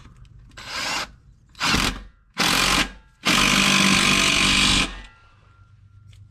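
Power drill tightening an exhaust clamp bolt, run in four short bursts, the last and longest about a second and a half, as the bolt is cinched down.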